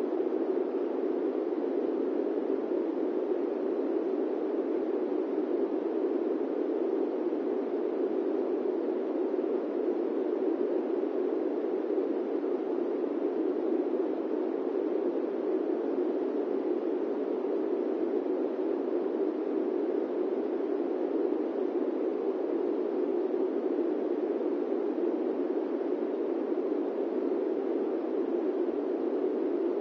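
Steady airplane-cabin ambience used as white noise: an even, muffled rushing drone that never changes.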